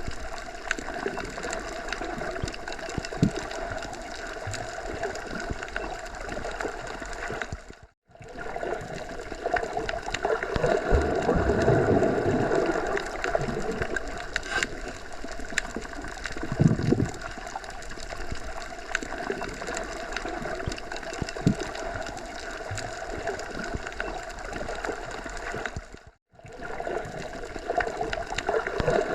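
Wind blowing through forest trees, a steady rushing that swells in a gust around ten to thirteen seconds in. It drops out to silence for a moment twice, about 8 and 26 seconds in.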